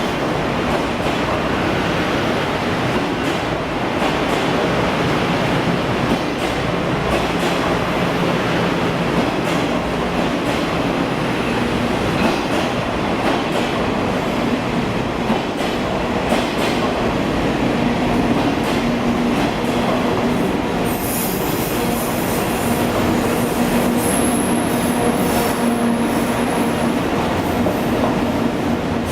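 Sleeper-train coaches running slowly on a propelled empty-stock move, a steady rumble of wheels on rail. About two-thirds through, a high wheel squeal joins in, with a thin high whistle for a few seconds after it.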